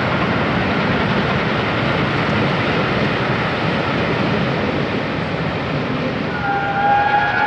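Passenger coaches of a departing steam-hauled train roll past with a steady rumble of wheels on rail. Near the end a train whistle sounds, several notes held together.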